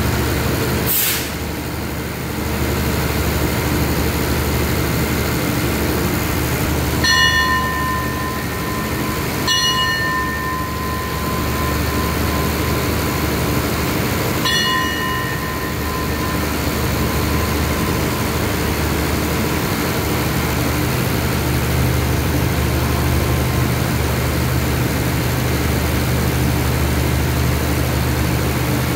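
Diesel engines of a standing express passenger train running with a steady low hum. A short hiss comes about a second in, and three brief high tones sound at about seven, nine and a half and fourteen seconds in.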